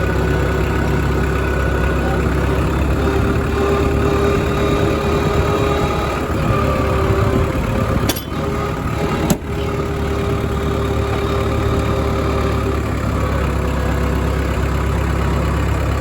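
Engine idling steadily, with two sharp clicks about eight and nine seconds in.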